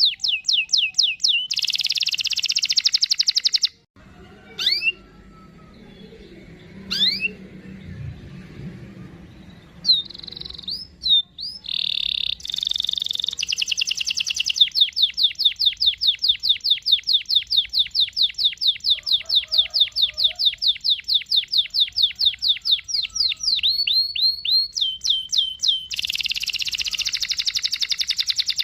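Domestic canary singing long, fast rolls of rapidly repeated high notes, with harsher buzzy rolls near the start and near the end. About a third of the way in the song pauses for several seconds, broken only by a few short rising whistles, then resumes in one long unbroken roll.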